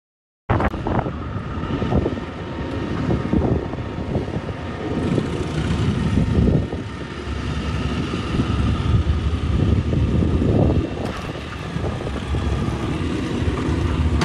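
Excavator's diesel engine running steadily, with a low rumble and a steady whine over it, after a brief dropout at the start.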